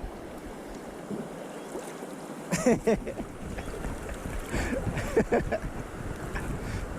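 Water splashing and sloshing around a kayak on a river, with short louder splashes about two and a half seconds in and again around five seconds.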